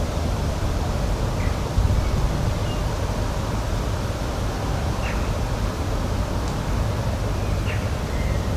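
Steady rushing outdoor noise, heaviest in the low end, with a few faint, short bird chirps scattered through it.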